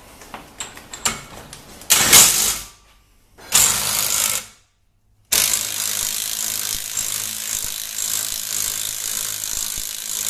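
Cordless impact wrench (rattle gun) driving in bolts. Two short bursts come first, then a continuous run of about six seconds.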